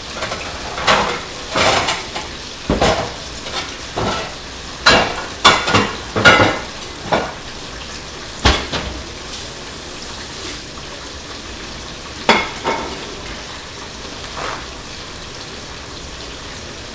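Chicken pieces frying in oil, a steady sizzle, under about a dozen sharp clinks and clatters of utensils and dishes as the fried chicken is plated. The clatters come thick in the first half, with a last couple later, then only the sizzle goes on.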